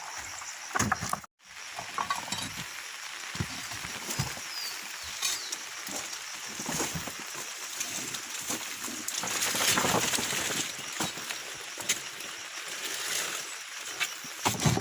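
Oil palm fresh fruit bunches being loaded onto a truck: irregular knocks and thuds as bunches are thrown and land, over a steady hiss.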